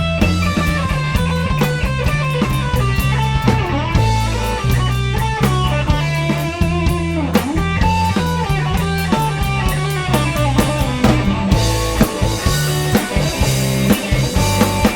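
Instrumental break of a rock song: a guitar melody with bent notes over bass and drum kit. The cymbals come in brighter and fuller in the last few seconds.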